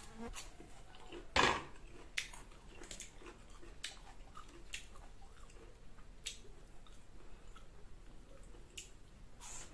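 Close-up mouth sounds of eating crisp green mango: wet chewing and crunching with many small clicks, and one louder crunch about a second and a half in.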